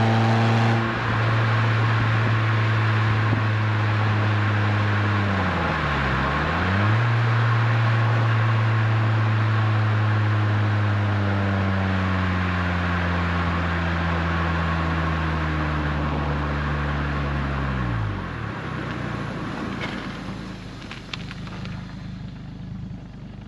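Renault Twingo RS Gordini's 1.6-litre four-cylinder engine at a steady cruise through an aftermarket Inoxcar 80 mm stainless steel exhaust, with road and wind noise. About six seconds in, the revs dip briefly and come back up, then from about eleven seconds they fall slowly, and the engine sound drops away about eighteen seconds in.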